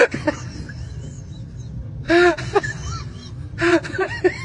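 Short rising-and-falling vocal cries from a person, with a sharp gasp-like onset at the start and two louder cries about two and three and a half seconds in, over a steady low rumble.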